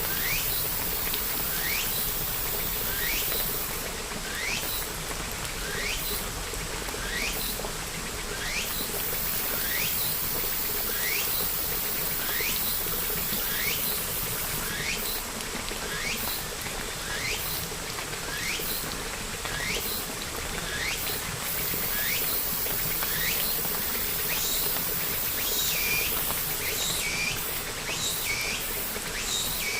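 Steady rain, with an animal's short rising chirp repeated about once a second over it; near the end a few more calls join in.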